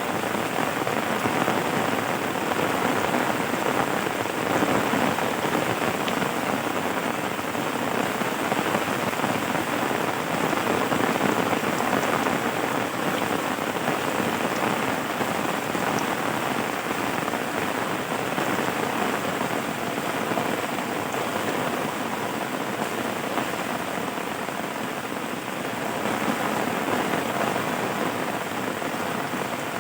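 Steady rain falling on a surface, an even, unbroken patter of drops.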